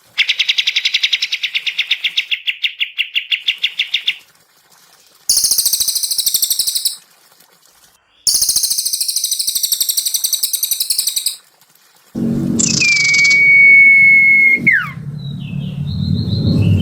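Recorded songbird calls: a rapid, buzzy trill lasting about four seconds, then two bursts of very high, fast chattering trills with short pauses between them. Near the end comes a long steady whistle that drops away in a quick downward slide, over a low background rumble.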